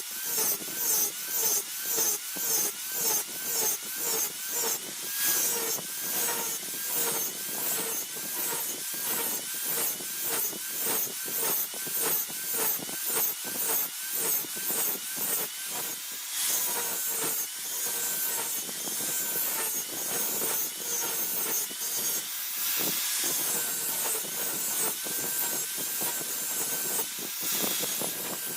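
A hand tool scraping a steel blade in rhythmic back-and-forth strokes, about two a second. The strokes grow less distinct and more even after about halfway through.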